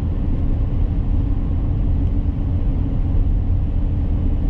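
Steady engine and road noise of a vehicle driving at highway speed, heard from inside the cab as a constant low rumble.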